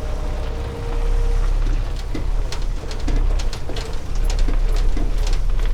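A steady low rumble from a running semi truck, with scattered sharp ticks and taps over it. A faint steady tone stops about a second and a half in.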